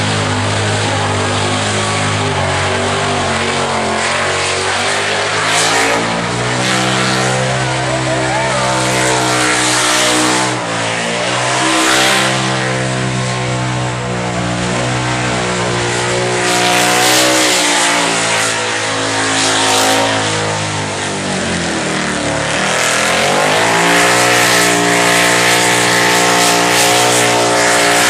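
A burnout car's engine held at high revs while its rear tyres spin, the pitch wavering up and down. About three-quarters of the way through the revs drop sharply and climb back to full again, over a steady hiss of spinning tyres.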